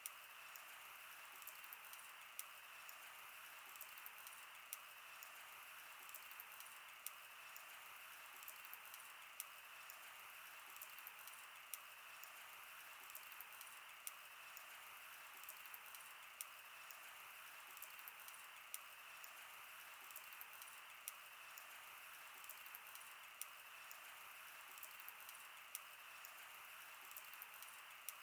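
Wood bonfire burning with a faint steady hiss and scattered sharp crackles and pops at irregular moments.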